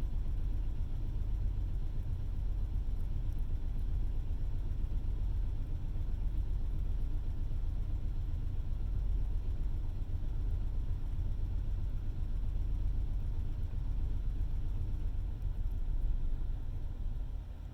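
A semi-truck's APU engine cranking over steadily on its starter without firing: a continuous low rumble. It won't catch, which the driver suspects may be a fuel supply fault, perhaps the fuel pump.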